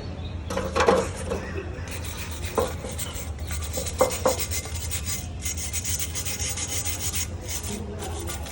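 Hand tool scraping and brushing over the metal of an engine cylinder head, a steady scratchy rasp broken by a few sharp taps, with a steady low hum underneath.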